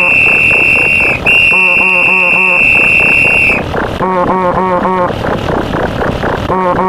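A pile-up of layered stock sound effects. Two long, high referee-whistle blasts end about three and a half seconds in. A ringing alarm-like pattern repeats in short bursts about every two and a half seconds, over a steady rushing noise like ocean waves.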